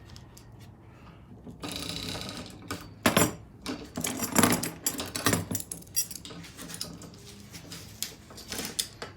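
Irregular metal clinks, rattles and knocks as the parts of a roller door opener are handled and fitted, loudest in a cluster about three to five and a half seconds in.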